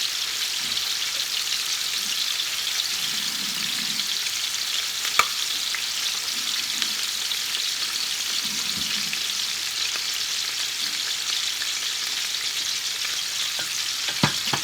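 Bone-in chicken breasts frying skin-side down in hot bacon grease over medium heat: a steady sizzle. A sharp click sounds about five seconds in, and another near the end.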